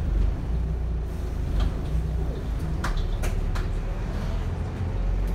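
Volvo B7RLE single-decker bus heard from inside, a steady low engine and road rumble with several sharp rattles and knocks from the body, about a second and a half in and again around three seconds in. The rattling is typical of this bus, which the uploader takes for a worn-out one.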